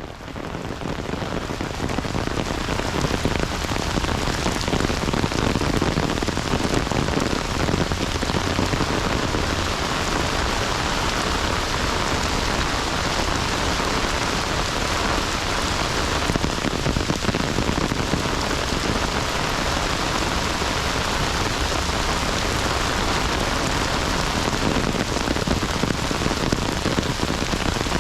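Heavy rain falling steadily, an even hiss of raindrops, fading in over the first few seconds.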